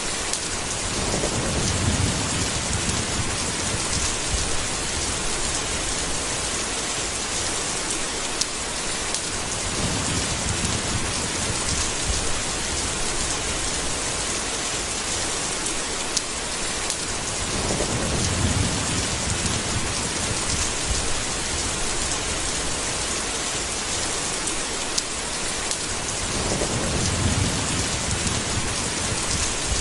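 Steady heavy rain with low rumbles of thunder swelling up about four times.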